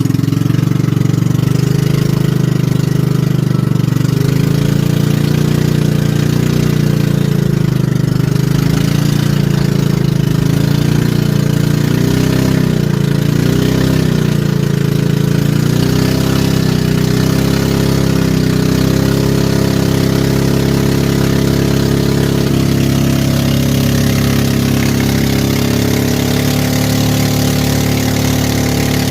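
A river boat's engine running steadily under way, its pitch wavering slightly now and then.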